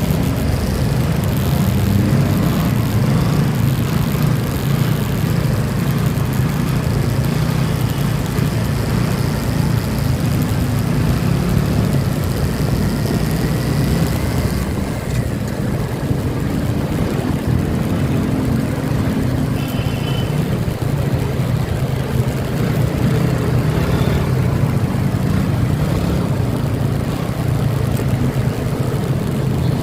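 Motorcycle engine running steadily while riding, a low steady drone under a rushing noise that eases about halfway through.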